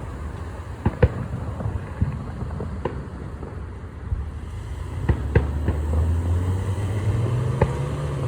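Fireworks going off: several sharp bangs and pops at uneven intervals over a steady low rumble, which swells from about halfway through.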